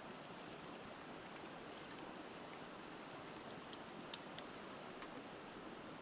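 Wood fire crackling with scattered sharp pops, the two loudest about four seconds in, over the steady rush of a river.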